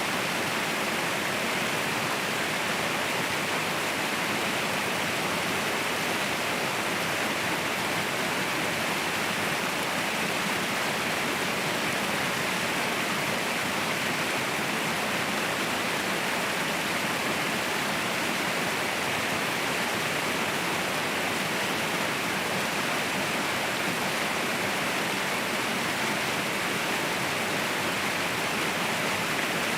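Waterfall: a steady, unbroken rush of falling water with no separate splashes or other sounds.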